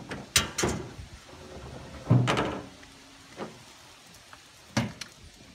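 A handful of separate knocks and clunks, the loudest about two seconds in.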